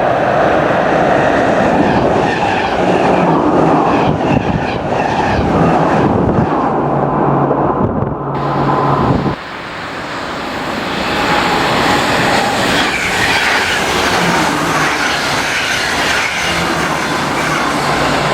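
Train passing on the railway, with wheels clattering on the rails and a low hum. The sound drops suddenly about nine seconds in and then builds again.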